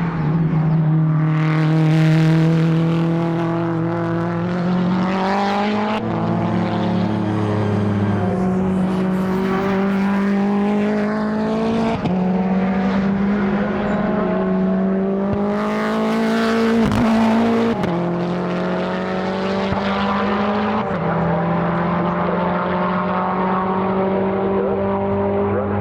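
Time attack race car engine pulling hard through the gears, its pitch climbing steadily in each gear and dropping sharply at several upshifts.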